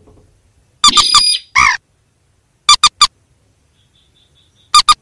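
Calls of rails (mandar and sintar). A harsh squawking call comes about a second in, followed by a shorter one. Then two bursts of three short, sharp notes follow, one near the middle and one at the end, with faint high notes between them.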